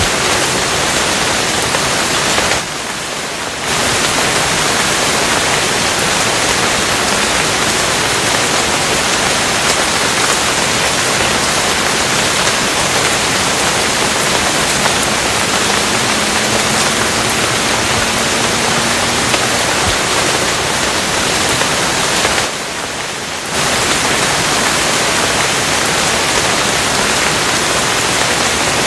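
Steady heavy rain, a dense, even hiss spread from low to high pitch. It briefly drops in level twice, about three seconds in and again about two-thirds of the way through.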